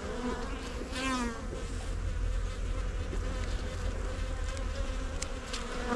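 Honeybees buzzing steadily around an open hive during an inspection, with one bee flying close past, its pitch gliding, about a second in.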